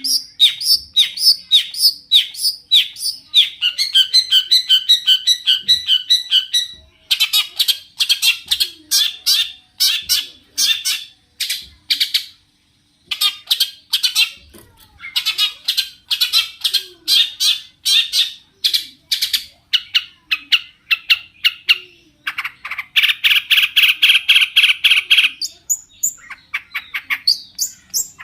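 Long-tailed shrike (cendet) singing: fast runs of sharp, scratchy repeated notes that change pattern every few seconds, with a short break about halfway and a dense buzzy trill a little before the end.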